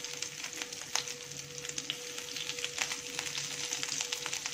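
Grated coconut sizzling in hot coconut oil in a frying pan, with many small scattered crackles as it begins to roast.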